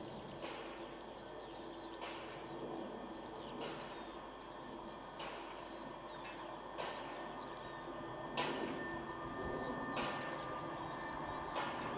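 Quiet outdoor ambience with small bird chirps, a soft rush of noise about every one and a half seconds, and a faint steady hum that grows slightly louder over the last few seconds as an electric multiple-unit train approaches out of a tunnel.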